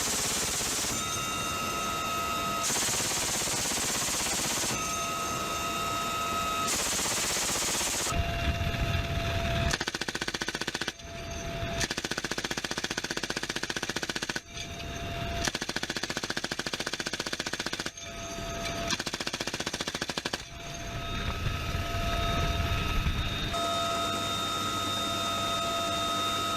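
M134 minigun firing a series of long bursts, each a continuous rip of rapid shots. Between bursts, and around them in the first seconds and near the end, a steady high whine is heard. From about 8 s the firing turns dense and repeats in several bursts of about 3 seconds each, each cut off suddenly.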